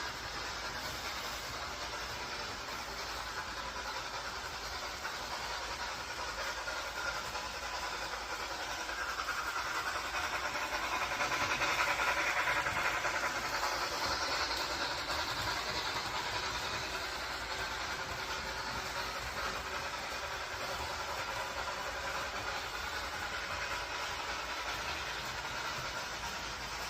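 Train rolling along the track, growing louder to a peak about halfway through and then fading back to a steady level.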